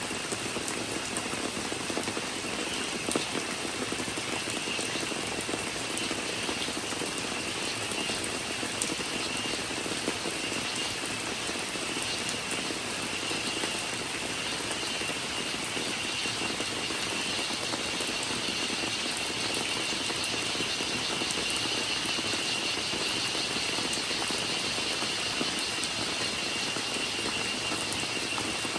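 Steady rain in a rainforest with scattered drop ticks, under a continuous high-pitched cicada drone that grows a little louder past the middle.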